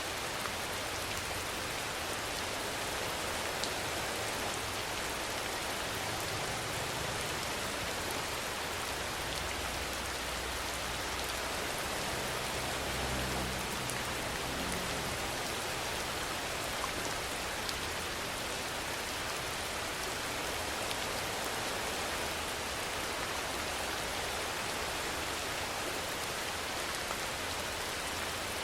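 Steady heavy rain falling, an even, dense hiss of drops on surfaces, with a low rumble swelling briefly about halfway through.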